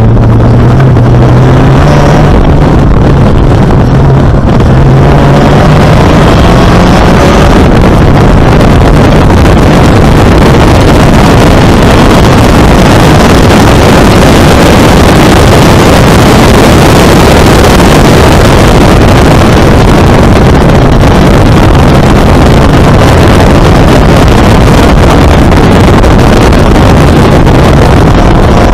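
Supercharged Mazda MX-5 four-cylinder engine in an open-cockpit MEV Exocet running hard on track, heard from the cockpit: the engine note rises under acceleration in the first several seconds, then a loud, steady roar of engine and heavy wind buffeting on the microphone takes over as speed builds.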